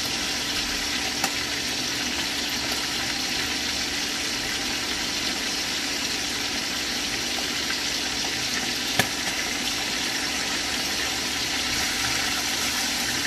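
Chicken breast pieces frying in hot oil in a pan, a steady sizzle. A sharp click of the spatula against the pan comes about a second in, and a louder one about nine seconds in.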